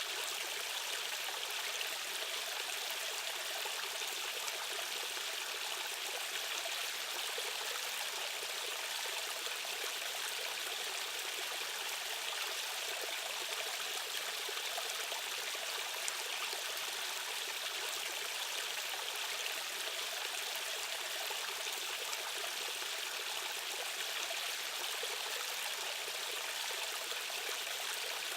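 Stream water flowing fast, a steady, even rushing sound that is bright and hissy with little deep rumble.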